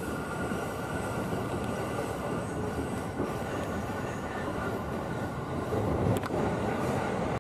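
Running noise of a moving passenger train heard from inside the car: a steady rumble of wheels on rails with a faint high tone. It grows louder about six seconds in, with a single sharp click.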